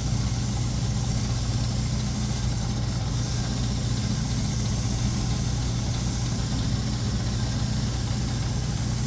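Electric shoe finishing machine running with a steady, even hum, as a leather edge is run through it for wax varnishing.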